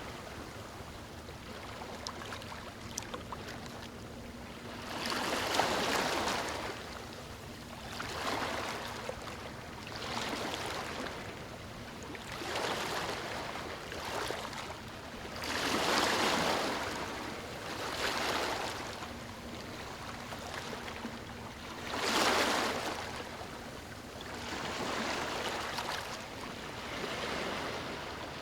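Ocean waves washing onto a beach: the surf swells and recedes every few seconds, with several bigger breakers among smaller ones.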